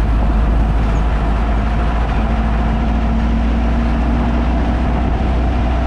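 A VW Baja Bug's 1968cc air-cooled flat-four running steadily while driving, heard from inside the cabin as a constant low rumble mixed with road and body noise.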